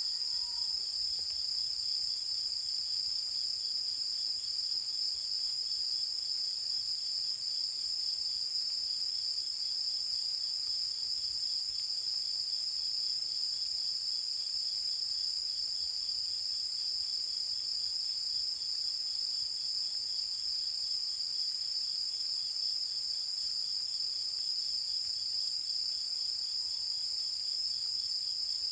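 Night chorus of insects singing steadily in the countryside, a dense, continuous high-pitched ringing with a fainter, evenly pulsing call beneath it.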